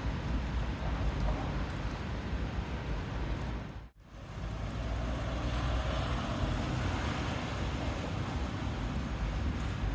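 Heavy rain on a city street: a steady hiss with a low rumble underneath. It cuts out briefly about four seconds in.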